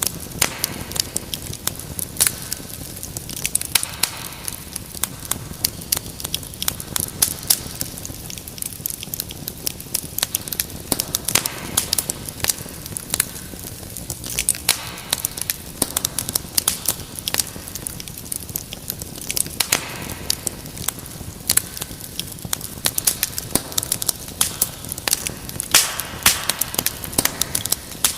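Wood fire crackling in a fireplace: a dense, irregular run of sharp snaps and pops over a low steady rumble of flames.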